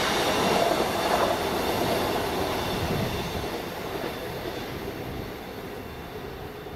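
Empty enclosed car-carrier wagons of a freight train rolling past on their wheels, the sound fading steadily as the end of the train passes and it draws away.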